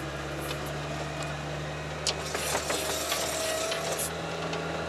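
All-terrain vehicle's engine running under load in a steady low drone, its note stepping up near the end, with scattered creaks and knocks from the vehicle's body.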